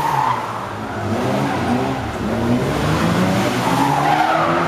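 Small car engines revving up and down hard through the gears as the Mini and MG Midget accelerate, brake and turn on an autotest course.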